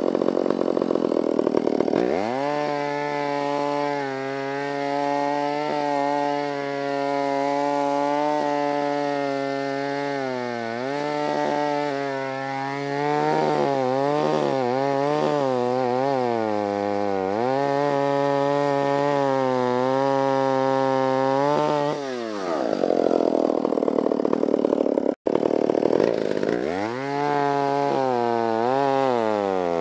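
Stihl 056 chainsaw with a 36-inch bar cutting a large dead elm. It idles, then revs up about two seconds in and runs at full throttle in the cut, its pitch sagging and recovering as the wood loads the chain. It drops back to idle a few seconds before the end, then revs up again.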